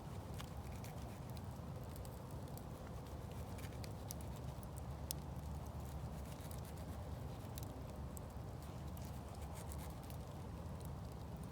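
Campfire crackling: scattered, irregular sharp pops over a steady low rumble.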